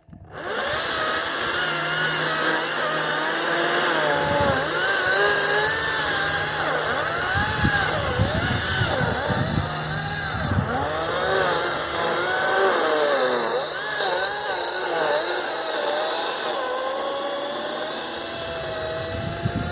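Kobalt 40V Max cordless electric chainsaw cutting through a cedar trunk low to the ground. It starts suddenly and runs steadily, its motor whine rising and falling as the load changes. The drop in speed is put down to friction on the chain and bar from cutting tight against the ground, not a failing battery.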